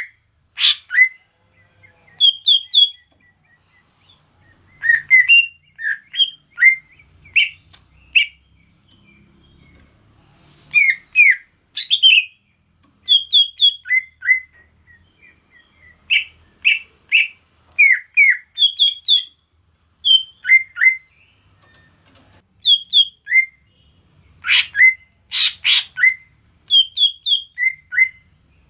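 A green leafbird (cucak ijo), an untrained 'bahan' bird, calling in quick clusters of two to four short, sharp whistled chirps with brief pauses between them. A steady high hiss runs underneath.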